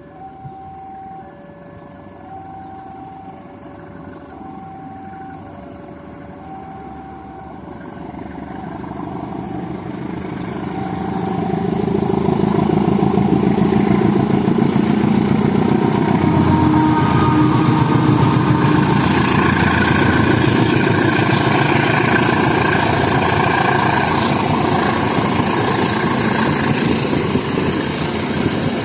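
A level-crossing warning alarm sounds a steady alternating two-note ding-dong while a diesel locomotive approaches. The locomotive's engine and wheels grow loud from about twelve seconds in as the train passes, drowning the alarm.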